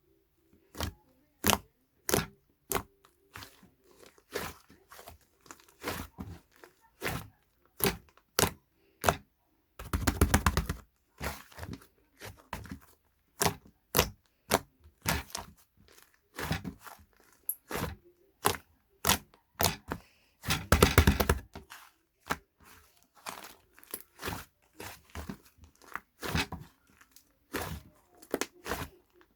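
A run of irregular sharp clicks and crackles, with two longer rattling, crackling bursts about ten and twenty-one seconds in.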